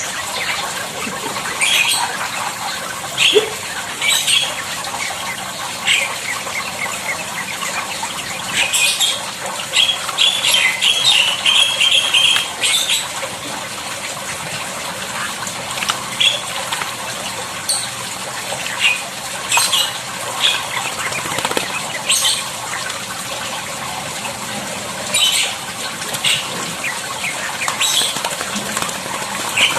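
A starling bathing, fluttering its wings and splashing water in short, repeated bursts.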